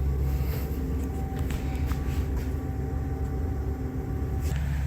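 Ford E-450 box truck's V10 engine idling with a steady low hum. Over it, the rear loading ramp slides out from under the box with scraping, rattling and a few clanks, easing off about four and a half seconds in.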